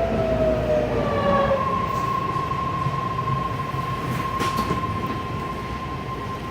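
BART train slowing down: the motor whine falls in pitch over the first second and a half, then settles into one steady high tone over the rumble of the car, which grows quieter as the train comes to a stop.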